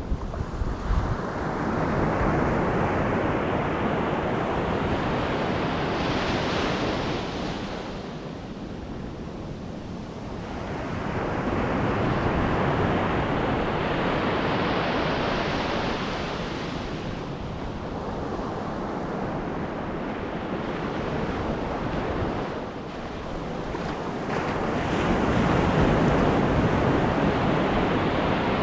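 Ocean surf: waves breaking and washing up the beach in slow surges that swell and fade every ten seconds or so, with low wind buffeting on the microphone.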